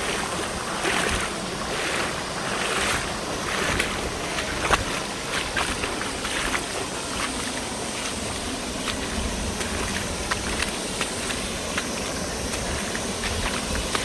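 Rushing water of a rocky mountain river, a steady hiss with many small splashes and clicks throughout.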